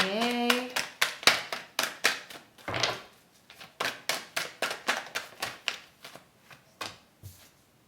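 A deck of tarot cards being shuffled and handled by hand: a fast run of sharp card snaps and taps, about three or four a second, thinning out and fading near the end.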